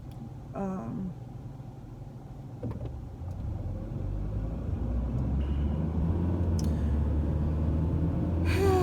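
Car being driven, heard from inside the cabin: a low engine and road rumble that swells from about three seconds in and keeps growing louder, as when the car picks up speed.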